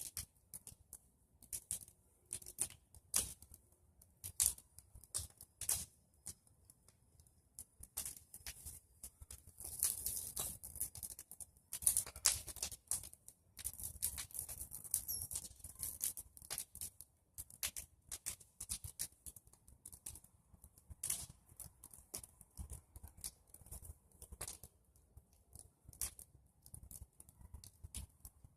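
Bonfire of pruned tree branches crackling, with irregular sharp pops and snaps that come thicker about ten and twelve seconds in.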